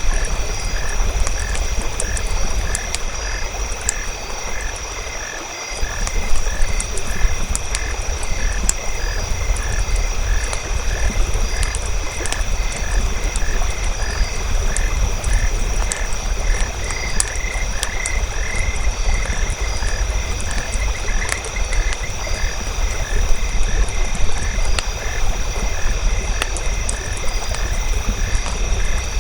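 Frogs croaking in a steady rhythm, about two to three calls a second, over a steady high-pitched drone. Scattered crackles of a campfire and a low rumble run underneath.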